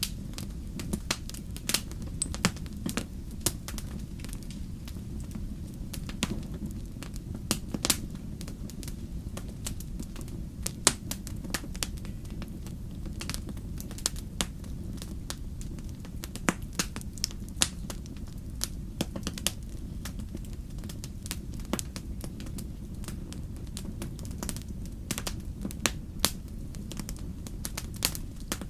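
Wood campfire burning: a steady low rush of flame noise with frequent, irregular sharp crackles and pops of burning wood.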